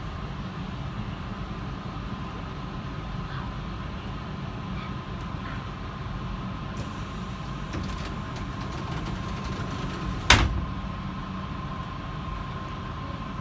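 H-set passenger carriage standing at a platform: a steady low rumble with a steady high tone over it, and one sharp bang about ten seconds in as the carriage doors shut.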